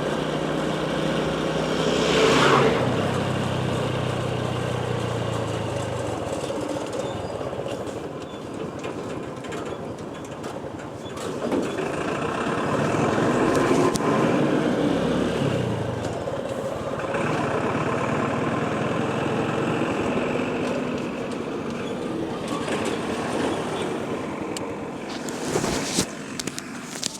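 Motorcycle on the move: the engine runs under steady road and wind noise, swelling louder about two seconds in and again in the middle.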